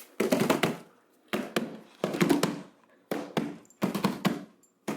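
A run of irregular knocks and thumps, coming in short clusters about once a second.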